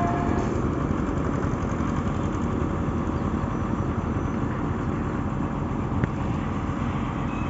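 Backhoe loader's diesel engine running steadily, with one sharp click about six seconds in.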